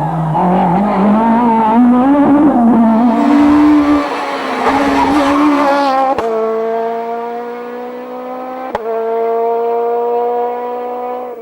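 Rally kit car four-cylinder engines at high revs. For the first four seconds the engine note rises and falls sharply as the car is driven hard through gear changes. After a cut about six seconds in, an engine holds high revs with its pitch climbing slowly. A second cut comes near nine seconds, followed by another long, slowly rising note.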